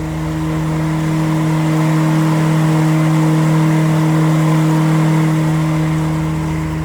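Motorway traffic rushing overhead with a steady low engine drone under it, swelling in the middle and easing off again as the boat passes beneath the M1 bridge.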